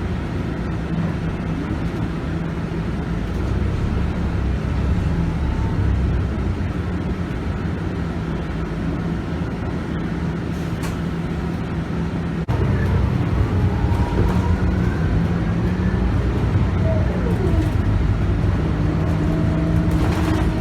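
Scania K280UB bus's 9.3-litre five-cylinder diesel engine running steadily under way, with its ZF Ecomat automatic gearbox. The sound gets suddenly louder about twelve seconds in, and a whine rises in pitch near the end as the bus picks up speed.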